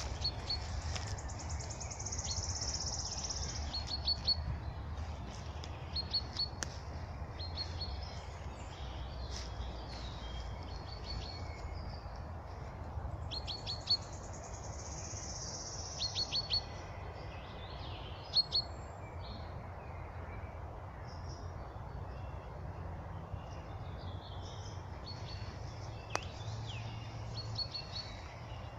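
Birds singing in a spring forest: short quick runs of high notes repeat every second or two, and twice a longer high trilling song of a couple of seconds comes in. A low steady rumble lies underneath.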